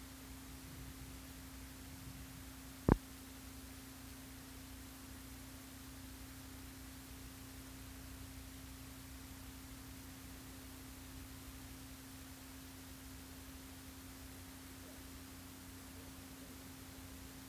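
Steady electrical hum on one pitch over faint hiss and low rumble, with a single sharp click about three seconds in.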